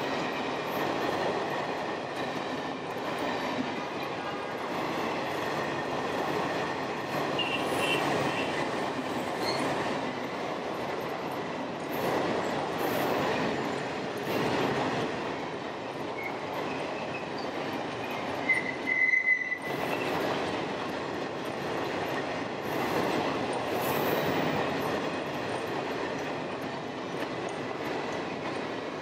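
Passenger train coaches running past at speed: steady rumble and rattle of wheels on the rails, swelling and easing as the coaches go by, with a brief high wheel squeal about two-thirds of the way through.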